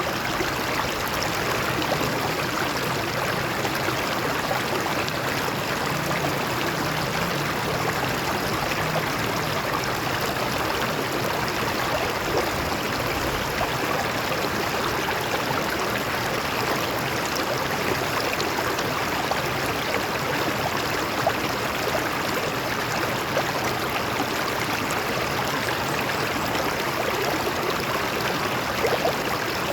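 Water flowing and splashing over rocks in a stream: a steady, even rush.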